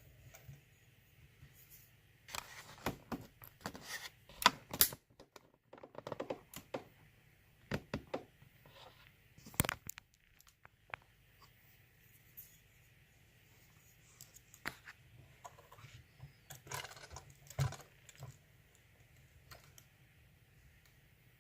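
Lock pick and tension tool working in an ASSA six-pin euro cylinder lock: irregular small metallic clicks and scratches, busiest for the several seconds after about two seconds in and again shortly before the end.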